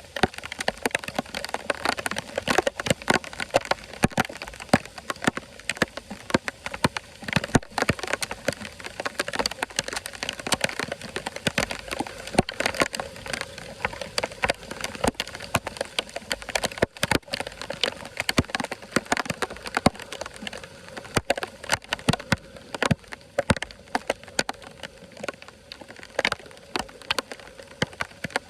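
Water pattering and splashing: a dense, irregular crackle of many small drops over a steady hiss.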